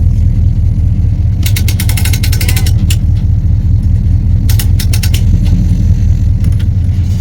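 Car travelling, a steady low rumble of engine and road noise with two short runs of rapid clicking rattles, about a second and a half in and again near the middle.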